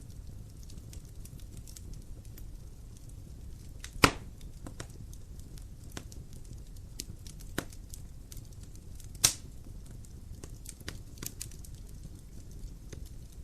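Wood fire in a fireplace crackling: scattered small pops over a low steady rumble, with two loud pops, about four seconds in and about nine seconds in.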